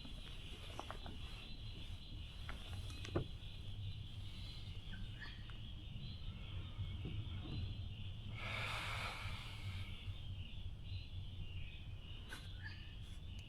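Outdoor ambience from a kayak on a creek: a steady high hiss over a low rumble. There is a sharp click about three seconds in and a brief rushing noise a little after eight seconds, with a few small ticks near the end.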